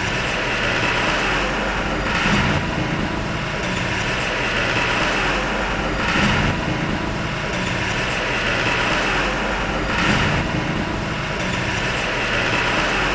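Diesel engine of heavy earthmoving equipment running steadily under work, with a louder hissing, clattering swell about every four seconds.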